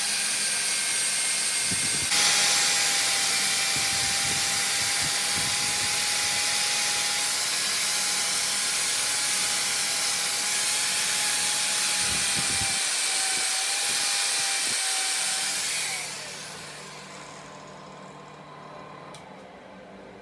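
A power tool running steadily with a loud hiss and a faint steady whine, then winding down and fading out about 16 seconds in.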